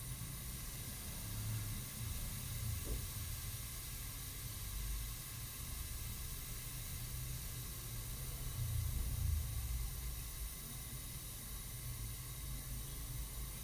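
Steady hiss of pressurised gas over a low, uneven rumble.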